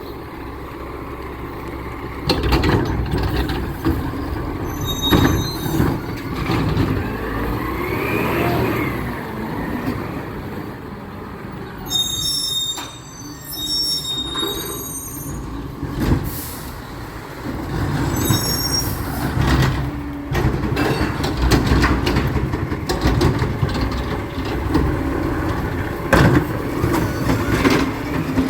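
Recycling truck working at the curb: its engine running steadily, with a whine that rises and falls about eight seconds in, several sharp bangs and clanks, and high squeals, a long cluster about twelve to fifteen seconds in.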